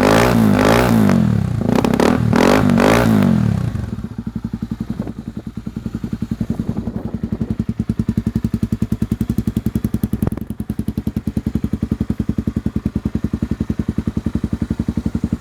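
Honda Tornado 250's single-cylinder four-stroke engine revved in a few quick blips, the revs rising and falling, then dropping back about four seconds in to a steady, evenly pulsing idle.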